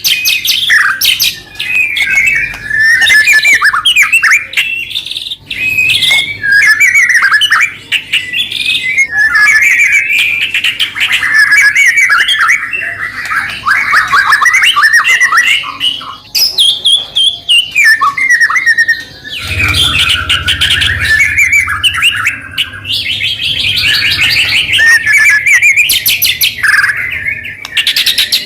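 White-rumped shama singing loudly and without pause: a fast, varied stream of whistles, trills and harsh chattering notes.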